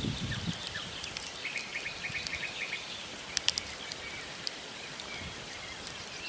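Wood fire of burning logs crackling, with scattered sharp pops, the loudest about three and a half seconds in. A small bird calls a quick run of short high notes about a second and a half in.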